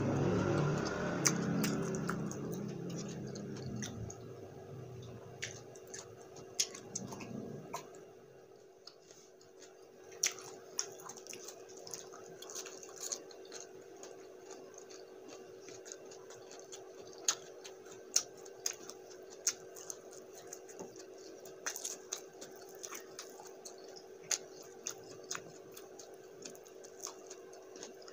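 Close-miked eating of spicy buffalo chicken wings: chewing, with scattered sharp mouth clicks and smacks as meat is picked off the bone by hand. It is fuller and louder in the first few seconds, then thins to sparse clicks over a faint steady hum.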